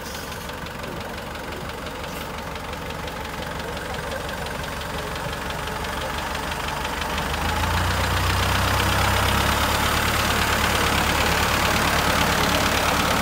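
Used Japanese ISEKI tractor's diesel engine running with a dense, even knock, growing louder over the first eight seconds and then holding steady with a stronger low hum.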